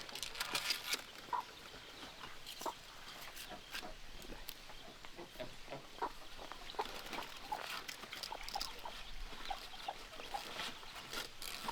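Chickens clucking, mixed with scattered light clicks and rustles.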